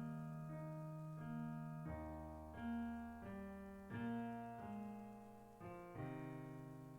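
Piano playing slow music: held chords with a melody on top, each new note or chord struck and then fading, changing roughly every half-second to a second.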